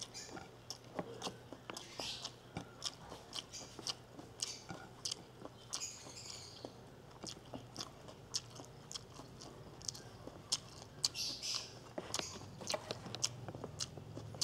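Close-up mouth sounds of chewing rice and sautéed bamboo shoots: irregular wet clicks and lip smacks, over a faint steady low hum.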